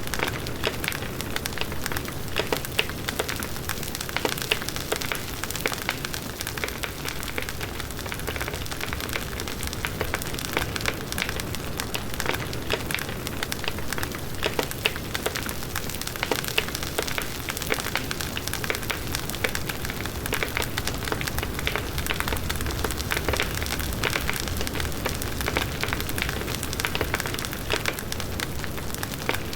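Large wood bonfire burning, with dense, irregular crackling and popping of the burning wood over the steady rush of the flames.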